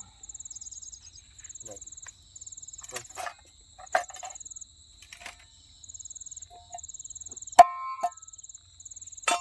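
Insects trilling in pulses, about a second on and a short break off, over a steady high whine. A few knocks and one sharp, ringing metallic clank, the loudest sound, about three-quarters of the way through, from camp cookware being handled.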